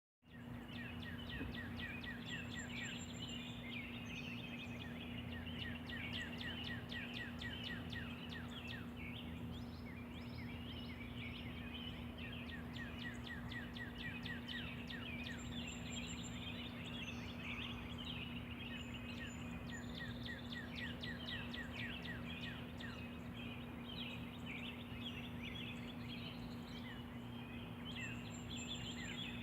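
A morning chorus of small songbirds chirping and singing, with several rapid trills of quick repeated notes, over a steady low hum.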